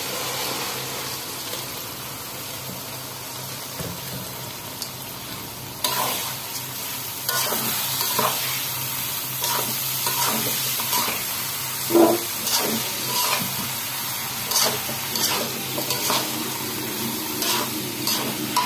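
Soaked rice and red lentils sizzling as they fry in hot oil and spice paste in a steel karahi. A spatula stirs them, scraping repeatedly against the pan. The sizzle gets louder about six seconds in.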